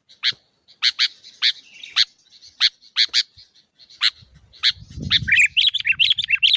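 A bird giving short, sharp calls over and over, roughly two a second. Near the end these break into a fast twittering run. A brief low rumble comes about five seconds in.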